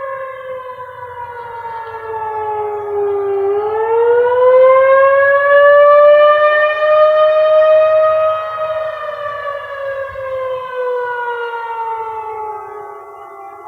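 Siren sounding with a slowly wavering pitch: it falls for the first few seconds, climbs to its highest point about halfway through, then sinks again near the end.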